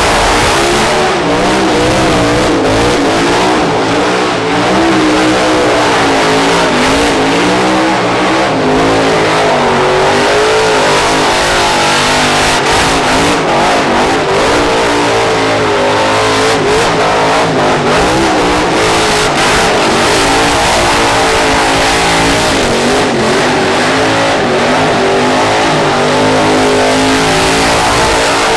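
A drift car's engine revving hard, its pitch swinging up and down over and over as the throttle is worked.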